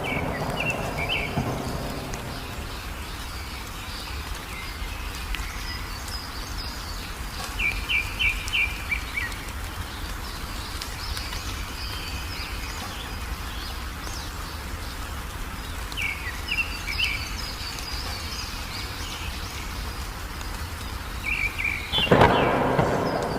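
Small birds chirping in short runs of quick notes over steady rain, with a loud thunderclap near the end.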